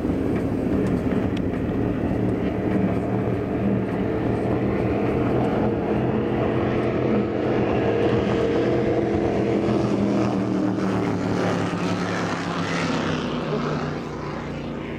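An engine drones steadily with a pitched hum, easing off slightly near the end.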